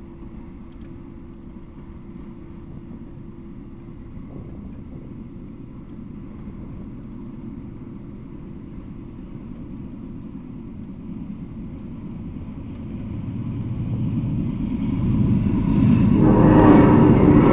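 Freight train of autorack cars rolling past, a steady low rumble of wheels on rail that grows much louder over the last few seconds.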